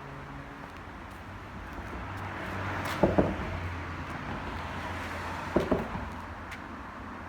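Traffic crossing a road bridge, heard from underneath: a rising rush of tyres and two double clunks about two and a half seconds apart as wheels go over the deck's rubber expansion joints.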